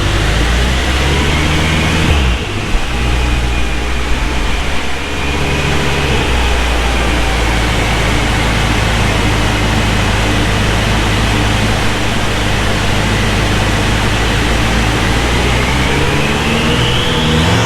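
2014 BMW M5's twin-turbo V8 running steadily on a chassis dyno, with a high whine that dips and then climbs again near the end as the engine begins to speed up.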